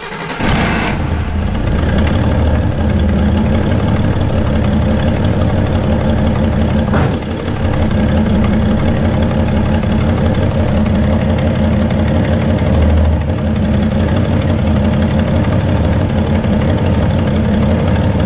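Datsun L28 inline-six engine catching at the start, then idling steadily while still cold.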